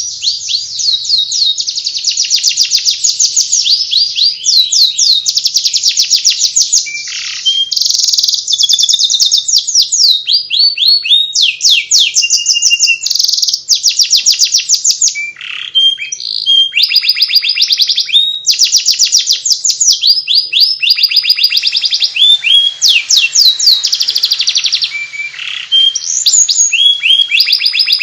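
Domestic canary singing its continuous 'ngeriwik' twittering song: fast trills of repeated high, down-slurred notes, changing to a new trill about every second, with no pause.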